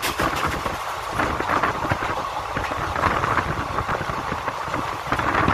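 Passenger train running at speed, heard from beside the coach: a steady rumble and rattle of the wheels on the track, with air rushing past.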